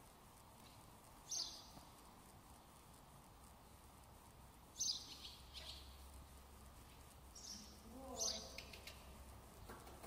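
Small birds chirping: a few short, high chirps spaced a few seconds apart over a quiet background, with a brief lower sliding sound about eight seconds in.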